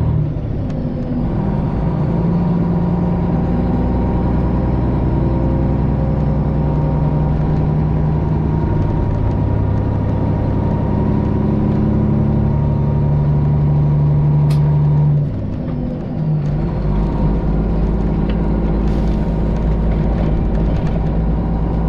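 Straight-piped Detroit Diesel 12.7 (Series 60) engine of a Freightliner Classic XL semi truck running under way. The sound is steady, dips briefly about fifteen seconds in, and comes back at a different pitch.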